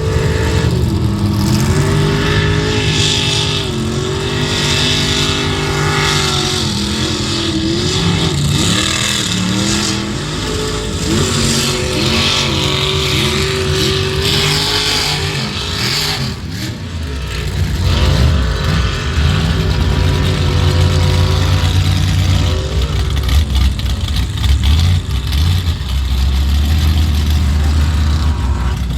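Mud bog truck engine revving hard, its pitch rising and falling again and again, then settling into a deep, steadier rumble after a short drop about two-thirds of the way through.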